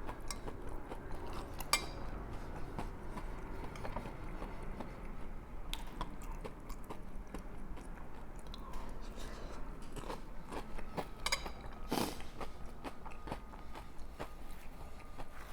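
Close-up chewing and crunching of corn chips (lime-and-salt Fritos) with picadillo stew. Scattered crisp crunches, with a few louder ones about eleven to twelve seconds in.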